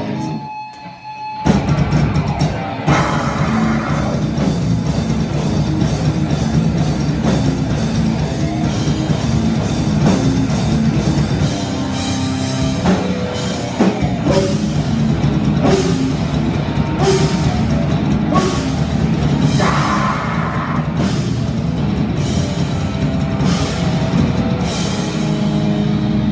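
Live hardcore band playing loud drums and distorted guitar without vocals, the band cutting out briefly and crashing back in about a second and a half in.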